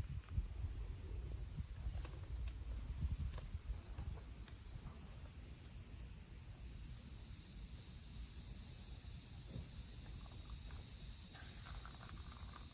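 A steady, high-pitched chorus of insects, such as summer cicadas or crickets, running unbroken, over a low rumble and a few faint clicks.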